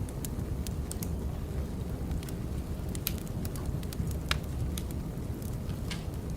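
Wood fire crackling: a steady low rush with scattered sharp pops, the loudest about four seconds in.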